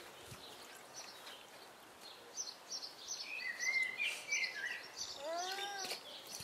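Small birds chirping in quick, high twittering phrases through the middle, then a short pitched call that rises and falls about five seconds in.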